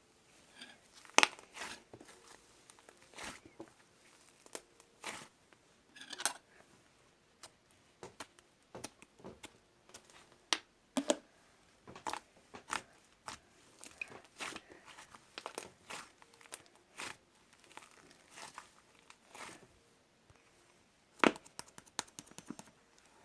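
Slime being squeezed and kneaded by hand, giving irregular crackly clicks and pops. The sharpest pops come about a second in, around ten to eleven seconds, and near the end.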